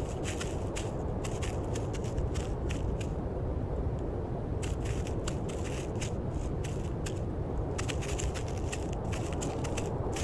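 Irregular bursts of crisp crunching and crackling over a steady low rumble of background noise.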